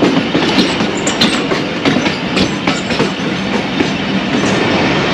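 Passenger train coach running on the track, heard from inside: wheels clacking and knocking irregularly over rail joints and points, over a dense running rumble and a faint steady hum.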